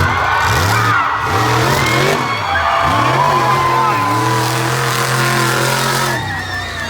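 Monster truck's engine revving hard in quick repeated bursts, its pitch rising and falling, then held high for about two seconds before dropping off near the end.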